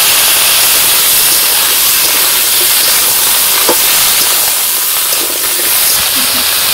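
Cut vegetables frying in oil in an iron karahi, giving a steady, loud sizzling hiss.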